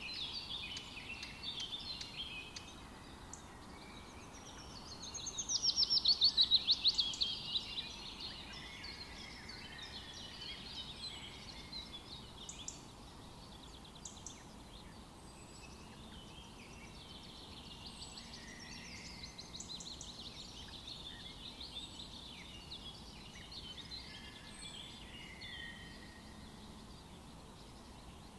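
Several birds calling and singing together over a faint steady outdoor hiss. The loudest is a fast, rapidly repeated trill from about five to eight seconds in, with short high chirps recurring through the rest.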